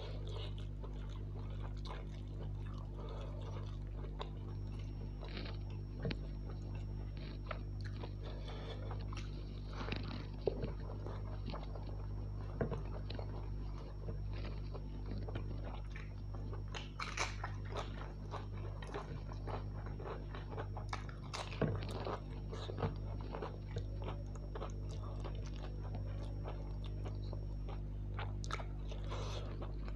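A person chewing a mouthful of soya chunk pulao, with frequent short clicks, over a steady low hum.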